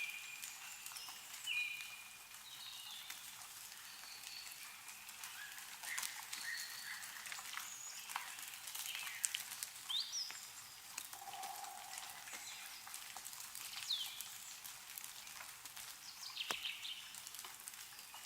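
Meltwater dripping from snow-covered trees, a scatter of sharp drips, mixed with small birds giving short chirps and a couple of rising whistles.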